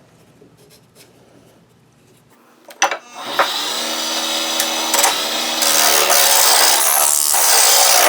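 A few clicks, then about three seconds in a Wen mini lathe starts and runs with a steady motor whine while a turning chisel cuts the spinning wood, a loud scraping hiss that gets louder about six seconds in.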